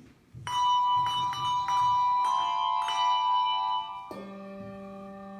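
Tuned bells struck several times in quick succession, each note ringing on, then a single lower bell note about four seconds in that rings and fades. They are a musical sound cue in a children's sound story.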